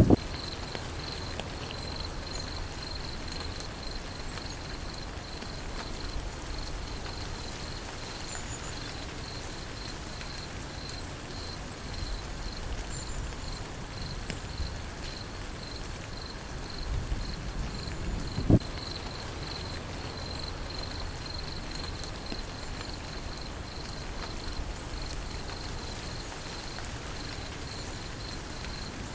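Steady rain falling, with an insect chirring in an even, pulsing high trill throughout. One sharp thump comes about eighteen seconds in.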